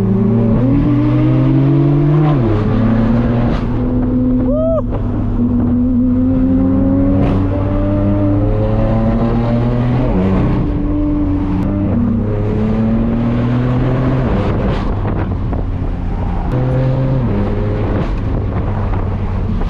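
Straight-piped BMW M4 F82's twin-turbo inline-six under load, its exhaust note rising slowly and then dropping sharply a few times, as with gear changes.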